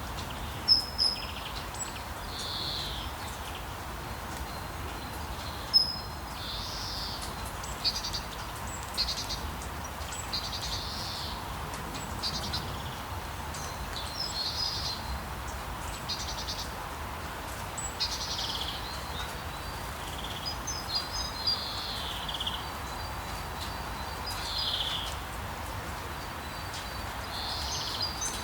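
Steady rain with songbirds calling over it in short repeated phrases every second or two, plus a few sharp taps, the loudest about six seconds in.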